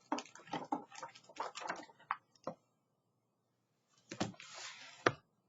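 A picture book being shaken, its pages and cover flapping and knocking in a rapid, irregular run of clicks for about two and a half seconds. After a pause, the pages rustle, with a couple of sharp knocks near the end.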